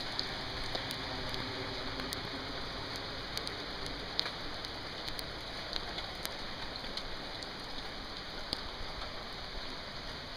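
Steady rain falling on wet pavement, an even hiss with scattered sharp ticks of single drops landing close by.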